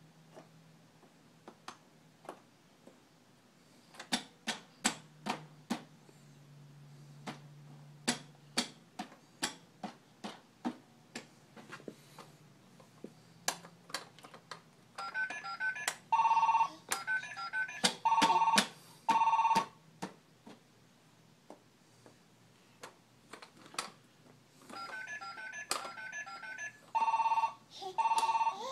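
A run of sharp clicks, then telephone-like beeping and trilling tones in two spells, with strong steady beeps in the middle of each.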